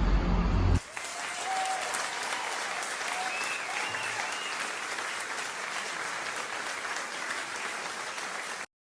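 Crowd applause and cheering, with a few faint whistles or shouts over the clapping. It starts abruptly under a second in and cuts off suddenly just before the end.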